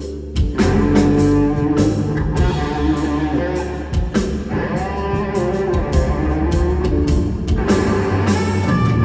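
Live band music: an electric guitar leads with sustained, gliding notes over bass and drums, in a slow blues-jazz instrumental.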